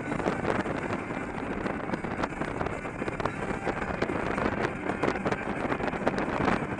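Wind buffeting a helmet or bike-mounted action camera's microphone at riding speed, over a steady rush of motorcycle engine and road noise.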